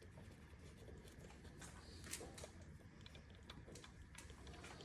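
Near silence: faint room tone with a few light, scattered clicks.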